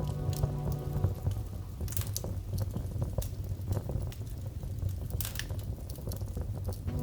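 Wood fire crackling, with scattered sharp pops over a low steady rumble. Soft music fades out about a second in.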